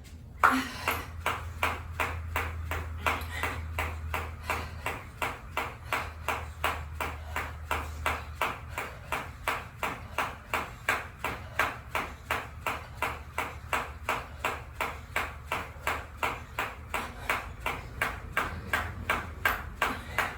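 Jump rope skipping, the rope slapping the floor and the feet landing about two and a half times a second in an even rhythm. It starts with a sharp first hit about half a second in.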